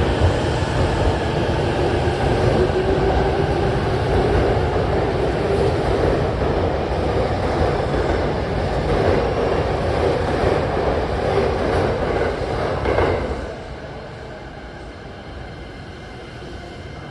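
Tokyo Waterfront Area Rapid Transit 70-000 series electric train pulling out and running past, with a steady din of wheels on rail and traction motors and a slightly rising tone. The noise falls away sharply about three-quarters of the way through as the train moves off, leaving a quieter rumble.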